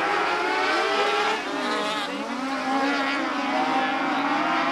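Several small race-car engines running together at racing speed, their pitch rising and falling as the cars accelerate, lift and pass by.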